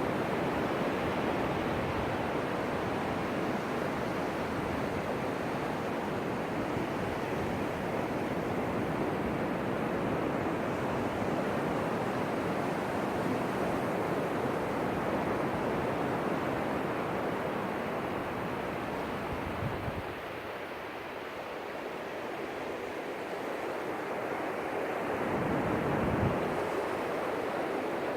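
Ocean surf: waves breaking and washing up the beach in a steady rushing wash. It eases somewhat about two-thirds of the way through, then builds again near the end as another wave comes in.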